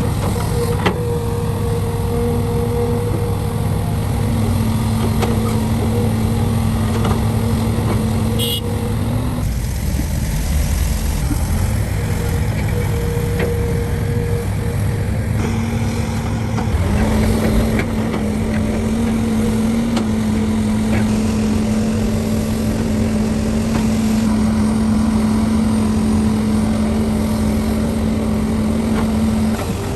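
Heavy diesel earthmoving machinery running steadily at a mine loading site, a deep rumble with a steady droning tone on top. The tone drops away for several seconds near the middle and comes back.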